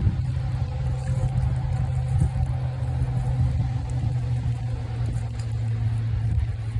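Steady low rumble of wind buffeting the microphone, mixed with traffic noise from a nearby highway.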